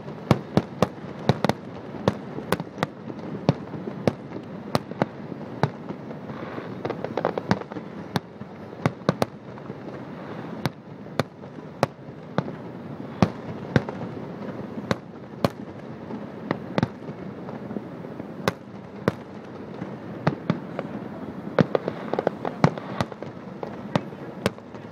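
Aerial firework shells bursting, sharp bangs and pops coming irregularly, about one or two a second, over a steady background noise.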